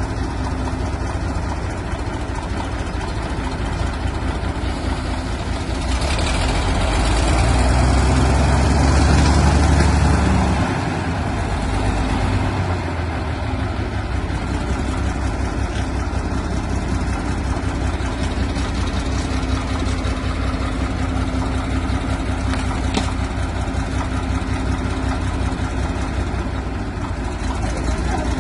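Caterpillar D4 crawler tractor's diesel engine idling, revving up about six seconds in for around four seconds, then dropping back to a steady idle.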